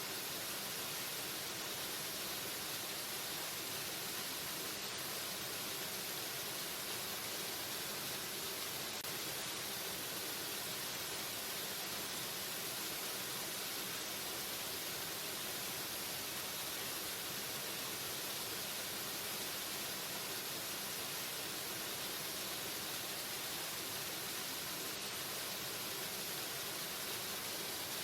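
Waterfall, its falling water making a steady, unbroken rush of even hiss with no change in level.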